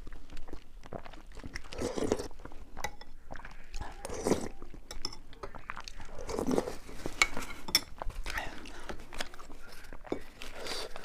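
A person eating close to the microphone: chewing and crunching food, with many short crisp clicks and a few softer mouth sounds.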